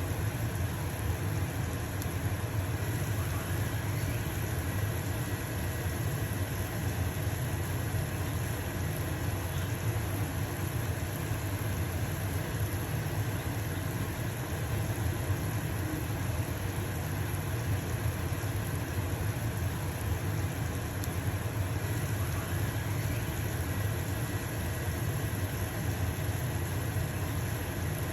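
A stove-top range hood fan runs with a steady low hum, over the hiss of a pancake sizzling in a frying pan.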